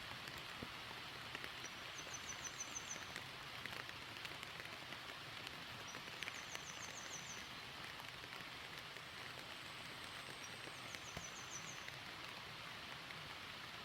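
Steady rain falling and pattering on surfaces, with scattered small drips. A short, high trill of rapid repeated notes sounds three times over the rain.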